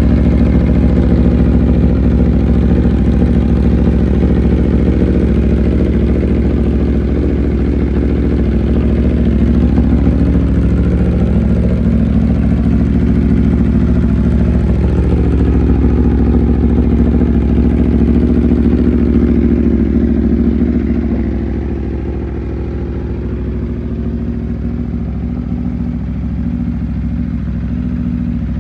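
Aprilia RSV4 RF's V4 engine running at a mostly steady speed. Its pitch rises slightly about eleven seconds in and settles back a few seconds later, and the sound gets a little quieter about two-thirds of the way through.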